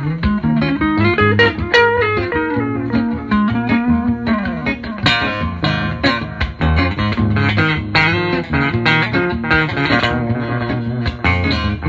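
Electric guitar, a Playtech Telecaster-style guitar, playing melodic single-note lines over a bass line. From about five seconds in the playing gets busier, with sharp percussive accents.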